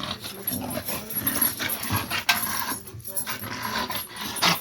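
Two dogs play-fighting: scuffling and rustling with dog growls and panting, and a couple of sharp knocks.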